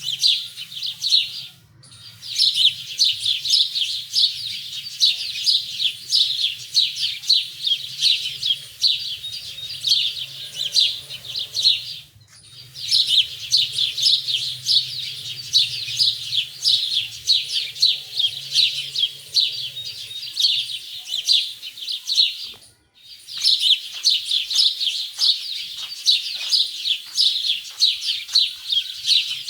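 Many small birds chirping together in a dense, rapid, overlapping high twitter, broken by three short gaps about 2, 12 and 23 seconds in.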